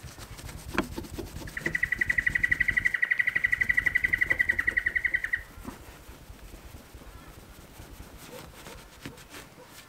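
A bird giving a fast, even trill of about ten notes a second, held for some four seconds and then cutting off.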